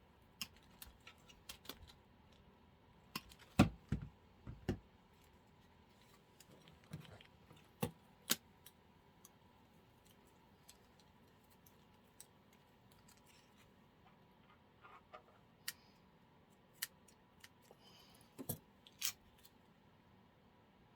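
Scattered clicks, snips and light knocks from artificial flower stems and craft tools being handled and cut, with a few heavier thumps about four seconds in.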